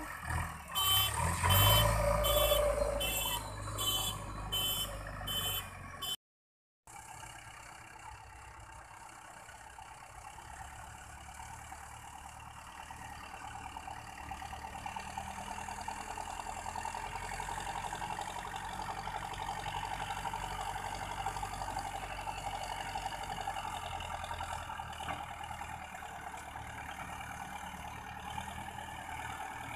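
A heavy vehicle's reversing alarm beeps evenly, under a second apart, over a loud engine rumble. After a sudden cut, a construction machine's diesel engine runs steadily.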